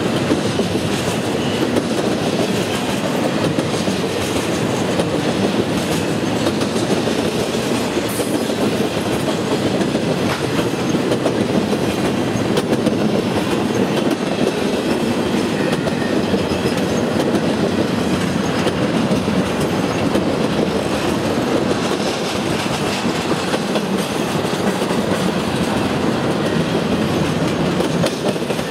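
Empty intermodal flatcars of a freight train rolling past at speed, with the loud, steady rolling noise of steel wheels on the rails.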